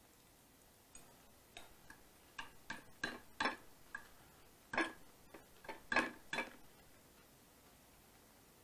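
A person chewing crunchy Caesar salad with croutons close to the microphone: an irregular run of sharp crunches starting about a second in and stopping about six and a half seconds in.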